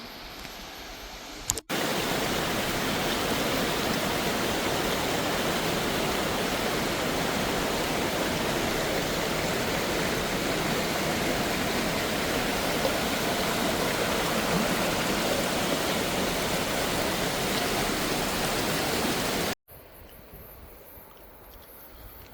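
Rushing water, a loud, steady, even rush that starts abruptly about two seconds in and cuts off abruptly near the end.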